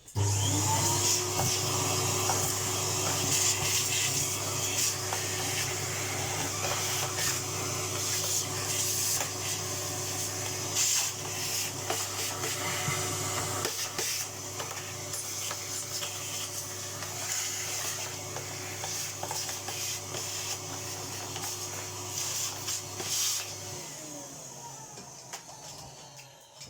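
Vacuum cleaner switched on and sucking dust and grit out of an old upright vacuum cleaner's motor compartment, with many small crackles and clicks as debris is drawn up. It is switched off a few seconds before the end, and its motor winds down.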